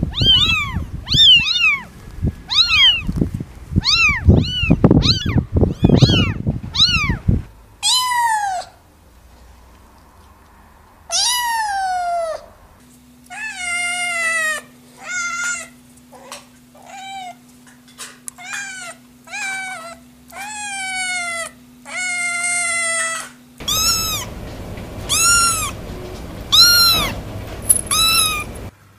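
Kittens and cats meowing in a series of separate calls. Quick high-pitched mews come first, then a run of lower, drawn-out meows about a second apart over a faint steady hum, and high mews again near the end.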